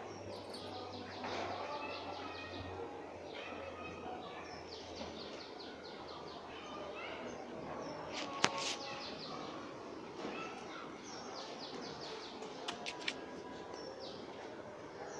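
Birds chirping in quick repeated trains over outdoor background noise, with one sharp tap about eight seconds in.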